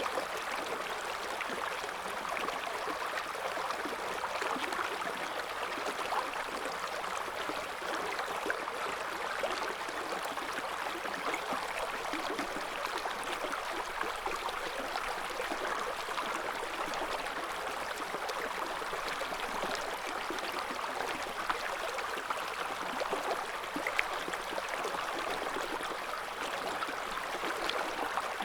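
River current flowing over stones, a steady babbling and splashing of moving water with small splashes scattered through it.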